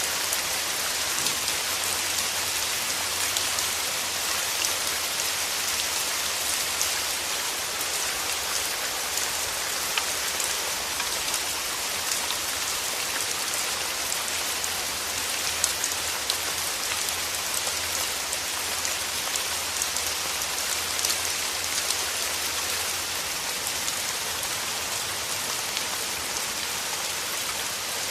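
Steady rain falling through forest trees: a dense even patter with many individual drops ticking on leaves and surfaces. A faint low hum sits beneath it.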